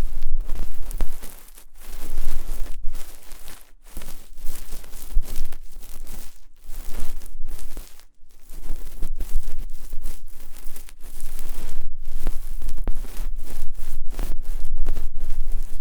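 Close-miked ASMR ear cleaning: an ear pick scratching and rubbing against the microphone in a rough, scraping rustle that stops briefly several times, over a steady low hum.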